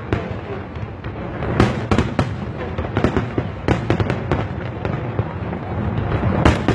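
Aerial fireworks bursting in a rapid, irregular run of bangs and crackles over a continuous rumble. The loudest clusters come about two seconds in and near the end.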